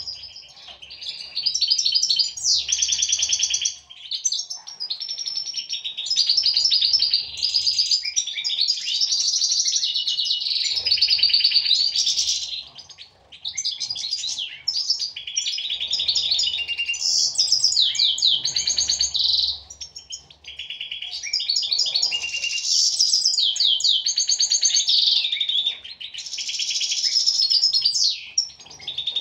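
European goldfinches singing: fast, twittering song in long phrases broken by brief pauses.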